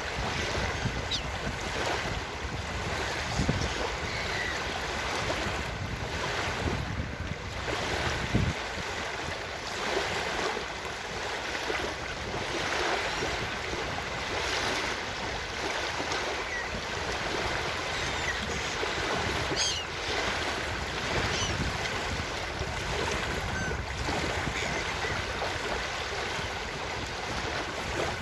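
Ocean surf washing steadily onto a beach, with a few faint, brief seagull cries now and then.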